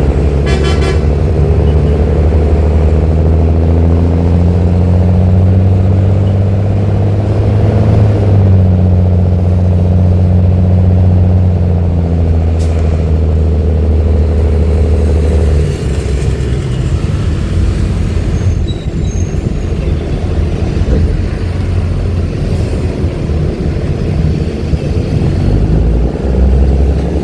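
Mercedes-Benz OH-1318 bus diesel engine running through a free-flow (open) exhaust. It pulls under load, its pitch rising over the first several seconds and then holding steady. Just past halfway it eases off to a lower, rougher run.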